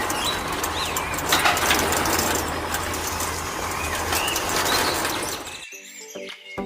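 Small birds chirping now and then over a steady hiss and low hum. Both cut off near the end and music begins.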